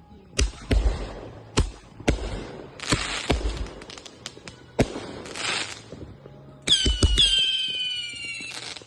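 Backyard consumer fireworks going off: a run of sharp bangs with crackling between them, then about two-thirds of the way through two whistles start half a second apart, held for nearly two seconds and falling slightly in pitch.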